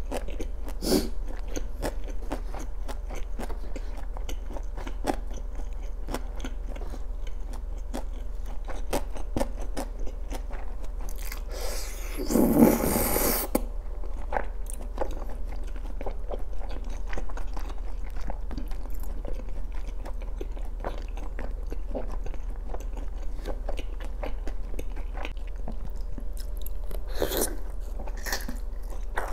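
Close-miked eating sounds: wet chewing and clicking mouth sounds as tteokbokki rice cakes in sauce are eaten, with a louder rushing sound about twelve seconds in. Near the end comes a bite into soft fish cake.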